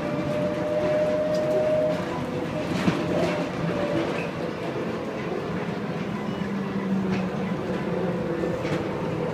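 Las Vegas Monorail train running, heard from inside the car: a steady rumble of its rubber-tyred wheels on the concrete guideway, with an electric motor whine that shifts pitch and one light knock about three seconds in.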